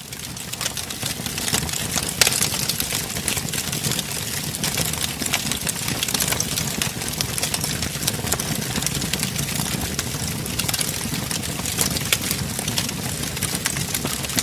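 Wood fire crackling in a fireplace: frequent sharp pops and snaps over a steady low rumble of flames, swelling in over the first couple of seconds.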